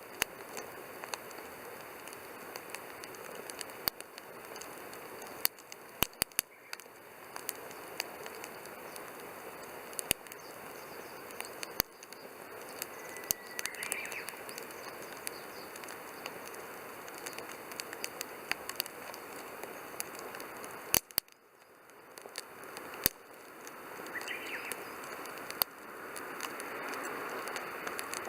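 Wood campfire burning in a steel fire pit: a steady hiss of flame broken by sharp, irregular pops and crackles from the burning wood.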